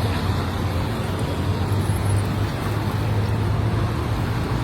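Steady road traffic noise: a continuous low vehicle rumble with an even hiss of tyres and street sound.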